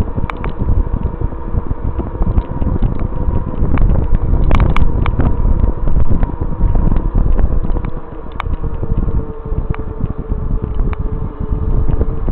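Wind buffeting the microphone on a moving e-bike, over a steady faint whine from the bike's motor, with scattered clicks and rattles from the bike.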